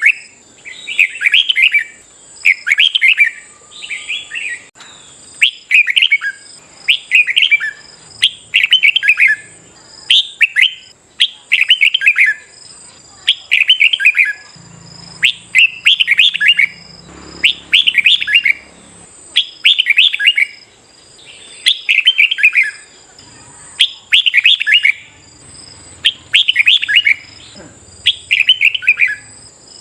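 Red-whiskered bulbul singing short, bright, warbled phrases over and over, about one phrase a second.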